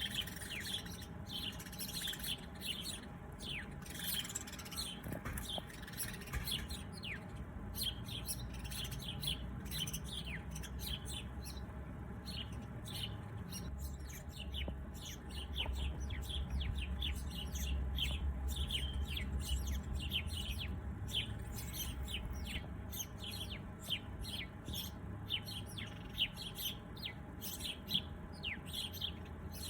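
Many small songbirds chirping together: a dense, continuous stream of short, high chirps, each dropping quickly in pitch, over a low background rumble that swells midway.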